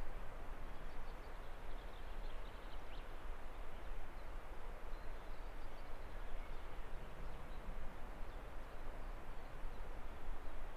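Outdoor mountain ambience: a steady rushing noise with a strong low rumble, and faint high bird chirps now and then.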